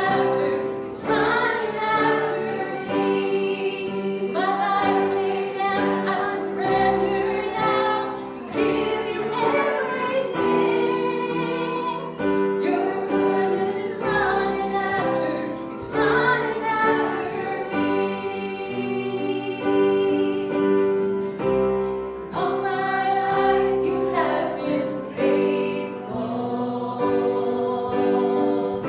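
Several voices singing a gospel hymn together over sustained instrumental chords.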